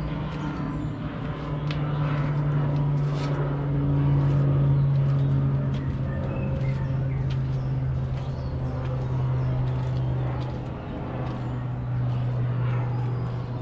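A steady low engine hum, with a higher tone riding on it and small clicks and taps over it.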